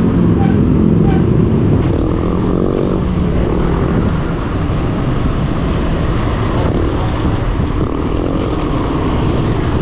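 Road traffic heard from a moving bicycle: a steady rush of motor vehicles, with an engine rising in pitch as it passes about three seconds in.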